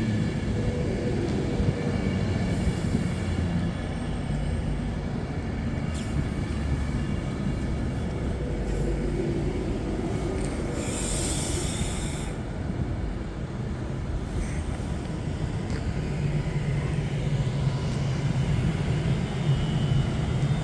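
Electric passenger trains at a station platform: a steady low rumble and hum, with a hiss lasting about two seconds about halfway through and the low hum growing stronger near the end.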